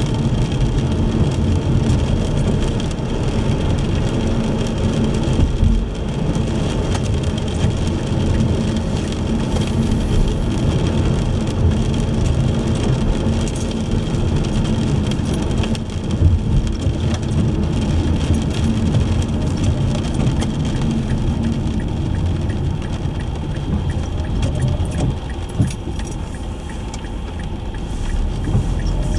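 Car driving on wet roads in the rain: a steady low rumble of engine and tyre noise, with rain pattering on the car.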